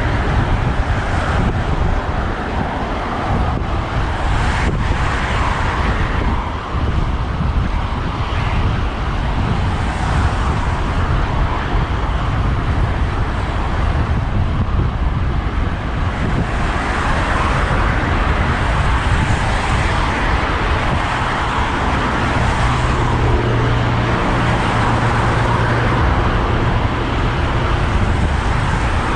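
Road traffic heard from a moving bicycle: cars passing on a busy road, with a steady low rumble of wind on the microphone. About three-quarters of the way through, a vehicle's engine hum stands out for several seconds.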